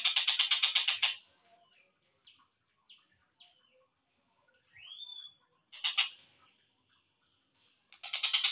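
Slowed-down recording of a tengkek buto (a kingfisher) calling: a fast, even rattling trill that stops about a second in, then scattered short chirps, a single rising whistled note about five seconds in, a brief burst near six seconds, and the rapid trill starting again near the end.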